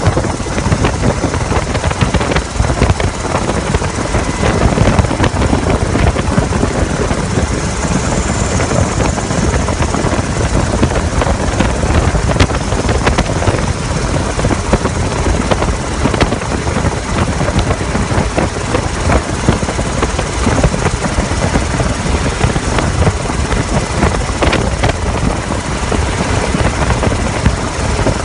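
Helicopter in flight heard from on board: its rotor and engine make a steady, loud noise with a fast flutter from the rotor blades.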